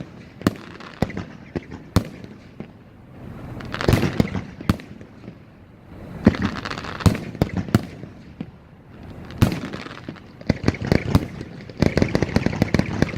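Fireworks bursting: a string of sharp bangs, with spells of dense crackling that come thickest near the end.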